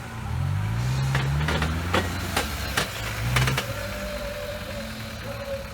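Off-road vehicle's engine revving up as it drives over rough ground, with a run of sharp knocks and clunks; a thin steady whine comes in about two-thirds of the way through.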